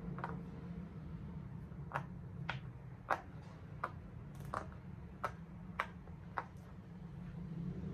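Bubbles of a large silicone pop-it fidget toy being pressed and popping one at a time. About nine sharp clicks come roughly every half second, over a faint steady low hum.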